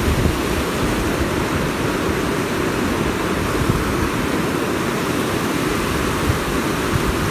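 Steady rush of a fast-flowing river swollen after heavy rain, an even, unbroken noise of running water with a low rumble.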